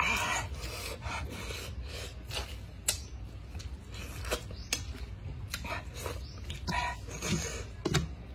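A person biting and chewing raw pineapple close to the microphone: irregular wet crunches and clicks with short bursts of noise.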